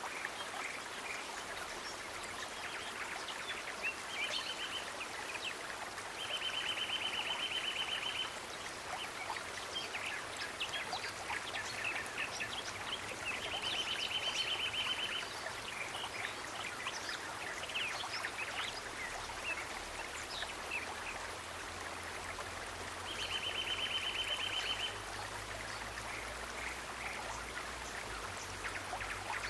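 Small stream trickling and splashing, with a high, even trill that comes in four times, each lasting one to two seconds.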